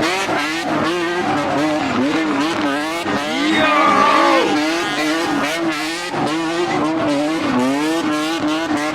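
Semi truck's diesel engine revved up and down over and over, about twice a second, during a burnout, over the hiss of spinning tyres, with a brief higher squeal about four seconds in.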